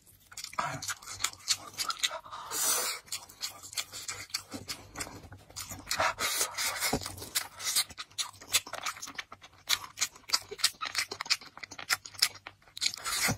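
Close-miked eating sounds of braised pork belly and fried rice being chewed: a rapid, irregular run of wet smacks and small clicks.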